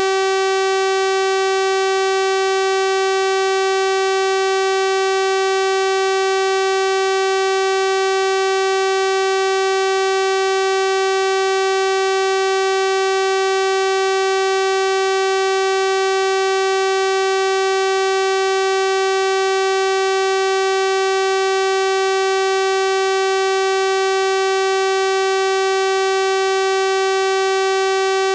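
Synthesized 384 Hz sawtooth-wave tone, a steady buzzy electronic drone with a full series of harmonics, unchanging in pitch and level.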